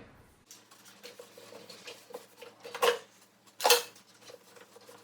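Small food containers and jars being handled and set down: scattered light clicks, with two louder knocks a little under a second apart just past the middle.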